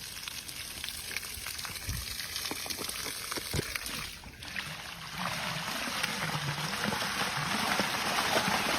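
Water rushing out of a plumbing line under strong pressure, a steady hiss. The flow dips briefly about four seconds in, then comes back louder and fuller.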